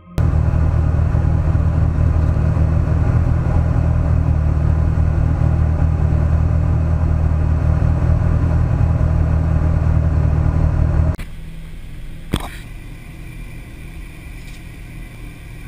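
VAZ Zhiguli race car's engine idling steadily in the cabin on the starting grid, loud and low-pitched. About eleven seconds in the sound drops abruptly to a quieter idle, with a single sharp click about a second later.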